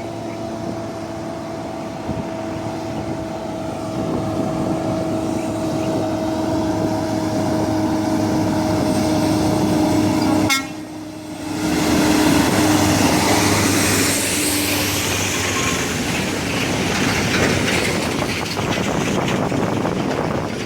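Coal haul truck driving at high speed: steady running noise with a steady droning tone, which breaks off briefly about ten seconds in before the noise comes back louder and rougher.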